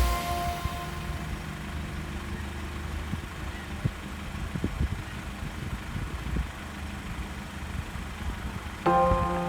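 Late-model Toyota Alphard fitted with a sports muffler, its engine idling with a steady low exhaust rumble. Background music comes back in near the end.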